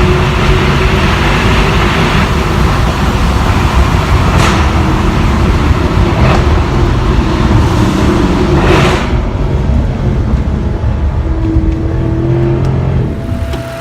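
Mercedes-AMG C63's 6.2-litre M156 V8 pulling hard under acceleration, with three sharp cracks along the way, then easing off. Near the end the engine sound drops and a steady, high whine is left, the noise that comes on after the car has been pushed hard.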